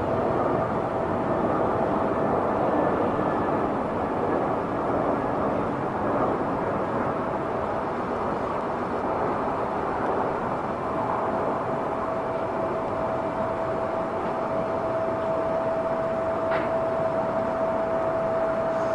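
Airbus A320neo airliner's Pratt & Whitney geared turbofan engines running steadily as it arrives, a continuous rush with a thin steady whine that fades for a few seconds midway and then returns.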